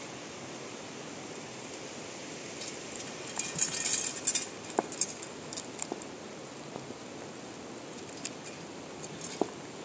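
Steady rain falling outdoors. About three seconds in there is a burst of rustling and clicking lasting a second or two, followed by a few scattered sharp taps.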